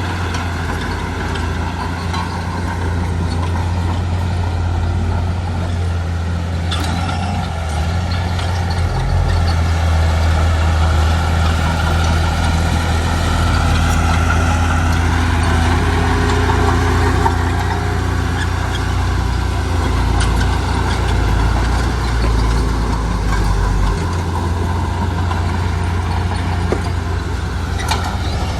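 Heavy diesel engine of earthmoving machinery running steadily, its note building a little about a third of the way in. A single knock sounds about a quarter of the way through.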